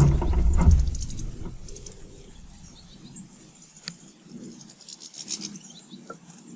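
A sudden heavy bump close to the microphone, followed by a rubbing, scraping rumble that fades over about a second and a half. Small garden birds chirp throughout, with a few sharp ticks later on.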